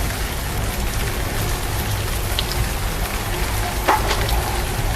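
Steady rain falling, a constant hiss with heavy low rumble, and a short sharp tap about four seconds in.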